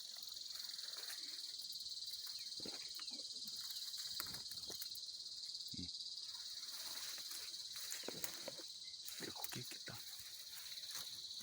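A steady high-pitched insect chorus, like crickets, with faint scattered rustles and light knocks from brush being moved about close by.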